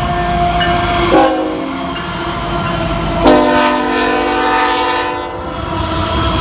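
Norfolk Southern diesel locomotive's air horn sounding a short blast, then a longer blast of about two seconds, a chord of several steady tones, over the low rumble of the slow-moving freight train.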